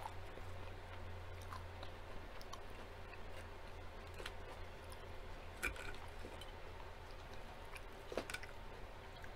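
Close-miked chewing of a salad, with scattered sharp clicks of a fork against the plate, two louder ones in the second half, over a low steady hum.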